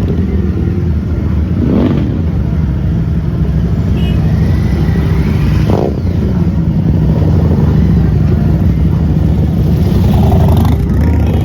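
Motorcycle engine running steadily with a low, even engine note.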